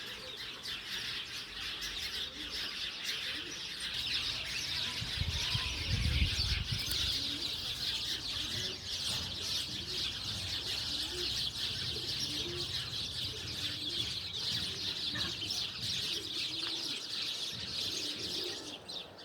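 A dense chorus of many small birds chirping continuously, with a low rumble swelling about five to seven seconds in.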